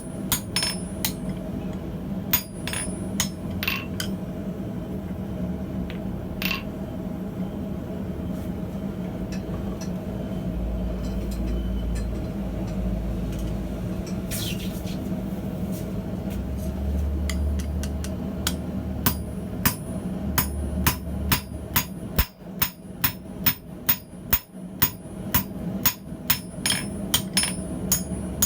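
Hammer blows on hot steel at the anvil while forging tongs: a few scattered strikes at first, then a steady run of about two blows a second from about two-thirds of the way in, over a steady background hum.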